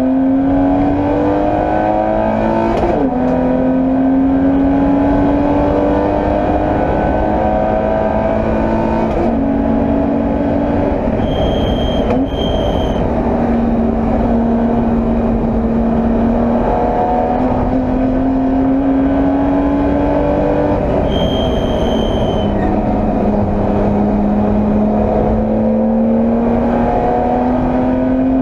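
A BMW E30 325i's 2.5-litre straight-six at race pace, heard from inside the car. It revs up and drops in pitch at each gear change, several times over, with stretches of steadier throttle in between. A brief high-pitched squeal comes three times, twice in quick succession about halfway through and once more later.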